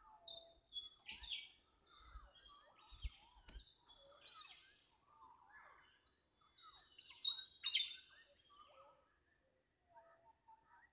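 Several small birds chirping and calling in short, quick notes that overlap, busiest about a second in and again around seven to eight seconds in.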